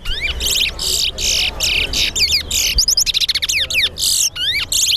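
Caged towa-towa songbirds singing rapidly, in back-to-back phrases of fast trills, chirps and swooping whistled notes. This is a counted song contest between two birds.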